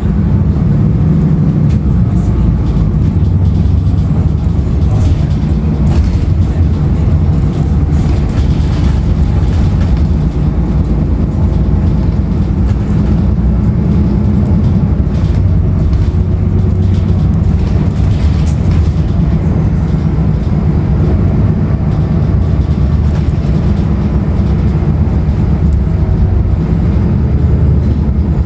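Steady interior drone of a 2016 Nova Bus LFS transit bus under way: Cummins ISL9 diesel engine running with continuous low road rumble, and a few brief rattles.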